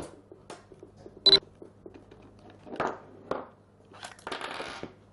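Metal tool and part handling while removing the side handle of a Bosch GSH 5 demolition hammer: scattered clicks and knocks, a single ringing metallic clink a little over a second in, and a short rattling scrape near the end.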